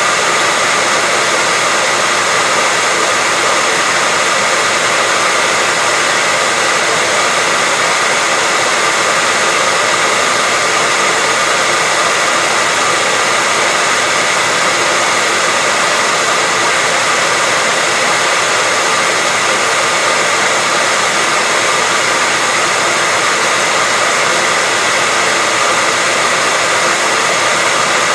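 Hair dryer running steadily with no change: an even, rushing whoosh of fan and airflow, with a faint high motor whine held at one pitch.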